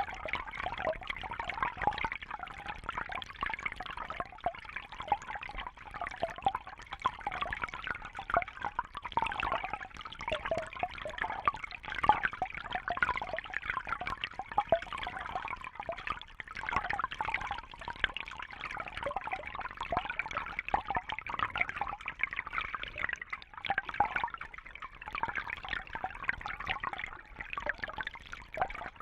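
Water trickling and bubbling steadily in a dense patter of small splashes.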